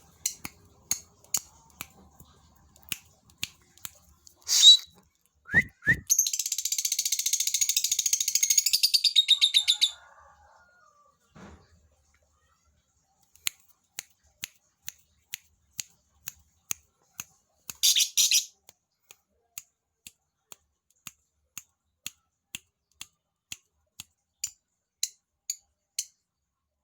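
A lakbet, a small Indonesian songbird newly caught, calling: sharp, high chip notes repeated about once or twice a second. About six seconds in there is a four-second burst of dense, rapid high chatter, and a couple of louder calls stand out near five and eighteen seconds.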